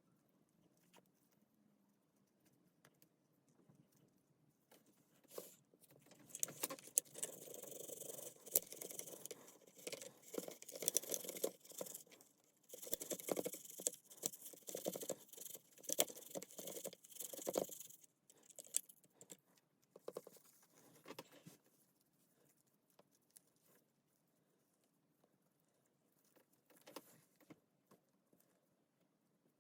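Clicking, clinking and rattling of small parts being handled, starting about five seconds in, running for some twelve seconds and then dying down to a few scattered clicks.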